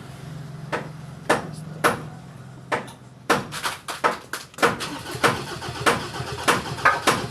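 The starter of a Ford Everest 2.2 diesel hums steadily for about three seconds while the engine does not catch. Then comes a series of sharp knocks, about two a second.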